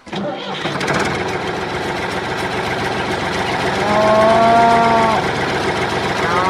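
Cow mooing twice, the second call rising briefly at its start, over a steady noisy background.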